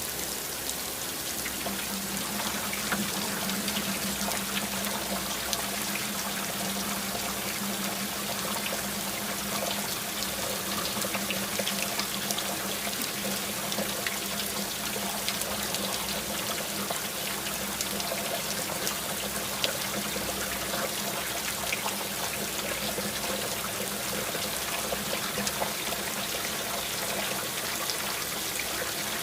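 Steady rain falling, with many small drop impacts and water trickling.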